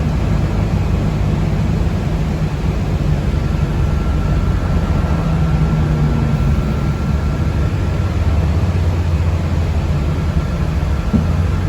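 Steady low rumble of a moving city transit vehicle heard from inside the passenger cabin, engine and road noise together. A faint thin whine comes in around the middle, and there is a small click near the end.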